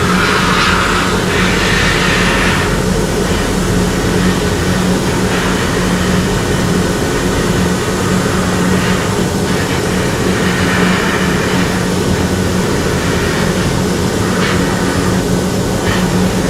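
Air spray gun hissing in on-and-off bursts as it is triggered to lay Cerakote into the crevices of a gun part, over a steady loud motor hum.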